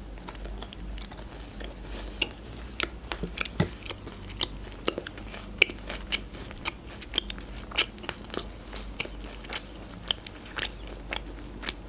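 A person chewing a crunchy cereal bar topped with flakes, a steady run of sharp crunches about two a second.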